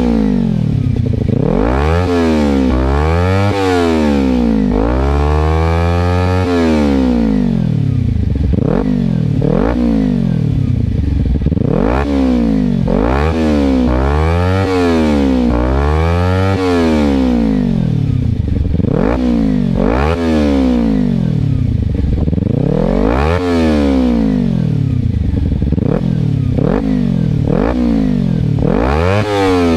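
Kawasaki Ninja 300's parallel-twin engine through an aftermarket exhaust, revved repeatedly at standstill: the pitch climbs sharply and drops back to idle, about fifteen throttle blips in a row, some held a little longer.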